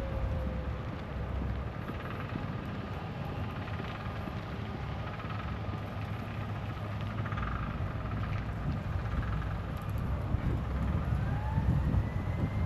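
Faint emergency-vehicle sirens in the distance, slow rising and falling wails that grow clearer about ten seconds in, over a steady low rumble.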